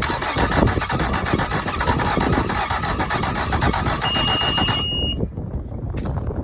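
Mercury 75 hp four-stroke outboard turning over on its electric starter with an even pulse for about five seconds without catching, then stopping. A thin high tone sounds during the last second of cranking, and a single click follows.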